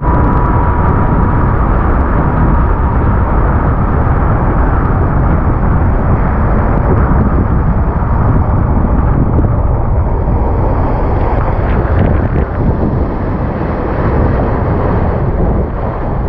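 Speedboat under way at speed: a steady engine drone mixed with heavy wind buffeting on the microphone.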